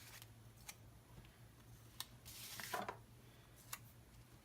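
Faint handling of a planner sticker sheet: a few light clicks and taps, with a short paper rustle about two and a half seconds in.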